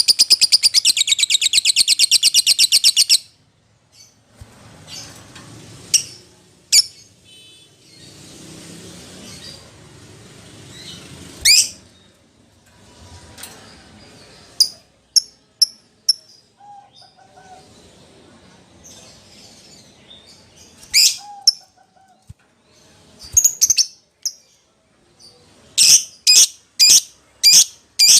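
Lovebird calling to a companion or rival: a fast, shrill chattering trill for the first three seconds, then scattered sharp high chirps, and near the end a run of loud shrill chirps about two a second.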